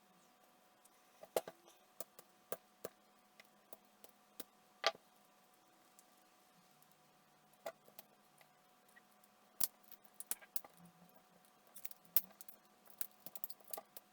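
Irregular light clicks and small metallic taps, as of hand tools and small parts being handled on a workbench, growing more frequent near the end, over a faint steady hum.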